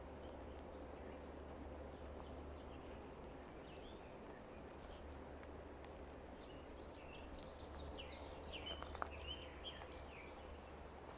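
Faint forest ambience: a small songbird sings one quick run of high chirps that steps down in pitch, starting about halfway through and lasting a few seconds, over a low steady rumble and a few scattered light clicks.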